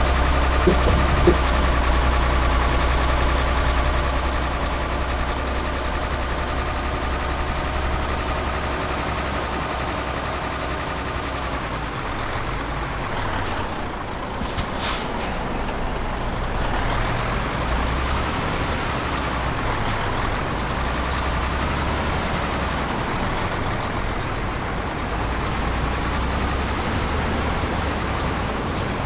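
Tanker truck's engine running steadily on the road, with a wavering whine over the low rumble. About halfway through comes a short double hiss, like air brakes releasing air.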